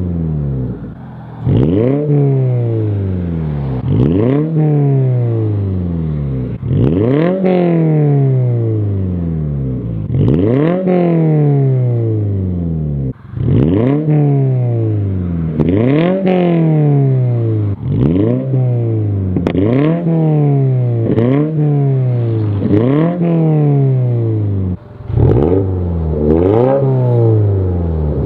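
Subaru BRZ ZD8's 2.4-litre flat-four through a full-titanium dual-exit Tomei muffler, revved again and again. Each rev rises fast and then sinks back, about every two seconds.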